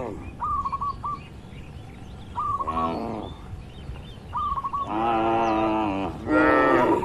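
Cattle mooing three times, the middle call the longest, with a bird repeating a short series of high chirps between the moos.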